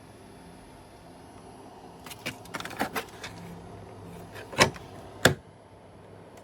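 A cluster of light clicks and rattles, then two sharp knocks about half a second apart, over a steady faint hum.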